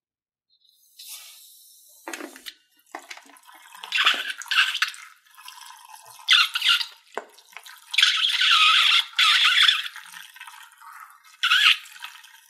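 Slime being squeezed and worked by hand, giving irregular wet squelches and crackles that come and go, with the longest stretch of squelching about two-thirds of the way through.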